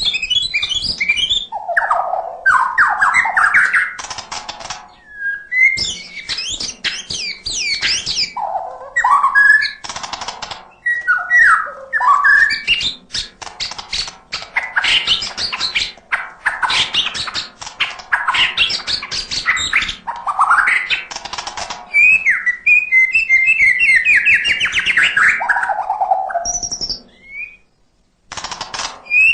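White-rumped shama (murai batu) singing loudly in a continuous, varied song of rich whistled phrases, fast note runs and harsh rattling notes, packed with mimicked calls. The song breaks off briefly near the end.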